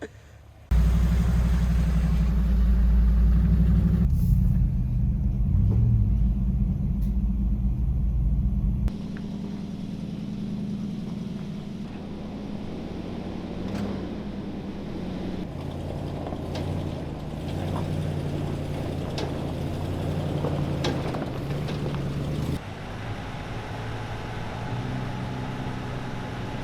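Off-road 4x4 SUV engines running and working at low speed over rock, a heavy low rumble in the first part that drops suddenly about nine seconds in, with a few sharp knocks later on.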